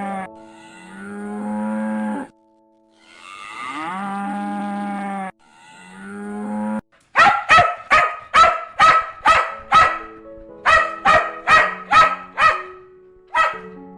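Cattle mooing: three long, drawn-out moos, followed by a rapid run of about a dozen short calls at roughly two a second and one last call near the end, over faint steady background music.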